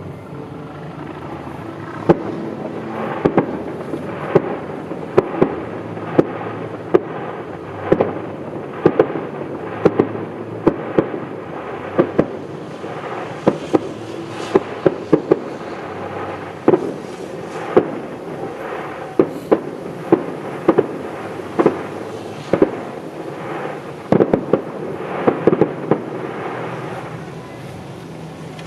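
Fireworks exploding: an irregular run of sharp bangs, sometimes several a second, over a steady background rumble. The bangs begin about two seconds in and thin out near the end.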